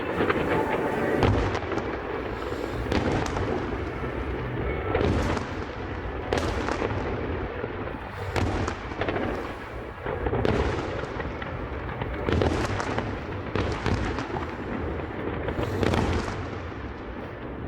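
Aerial fireworks shells bursting one after another, roughly one every second or so, each burst booming and trailing off into echo over a continuous low rumble of the display.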